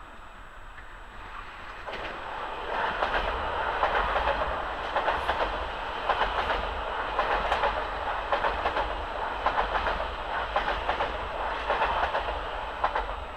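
Øresundståg electric multiple unit passing close at speed: a rushing noise builds over the first two seconds, then the wheels clatter in a quick, steady rhythm over the rail joints and switches until the train has gone by.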